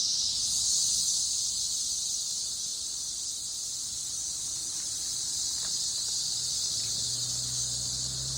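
A tree full of cicadas droning in a dense, steady chorus, a loud high-pitched hiss. A faint low hum comes in about two thirds of the way through.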